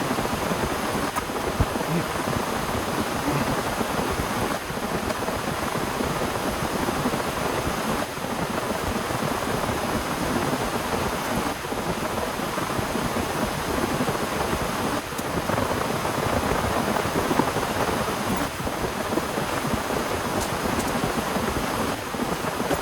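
Heavy rain pouring steadily, a dense even hiss with a low rumble beneath it.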